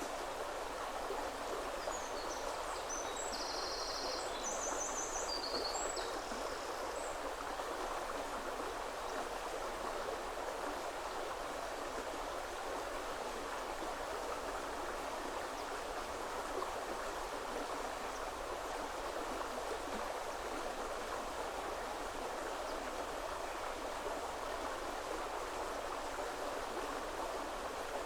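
Woodland river flowing steadily over rocks, a constant rushing and babbling of water. A small bird chirps a few high notes a couple of seconds in.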